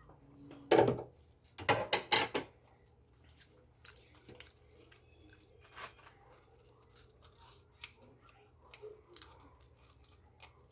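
A few loud clattering knocks, then scattered light clicks and ticks: hand tools and metal engine parts being handled and set down during engine repair work.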